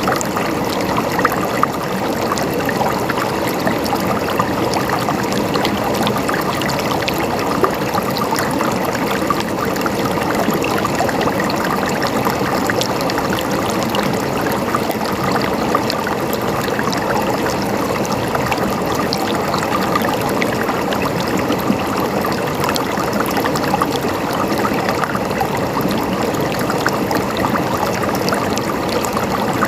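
Shallow stream of water running and gurgling steadily, with fine splashing and trickling throughout.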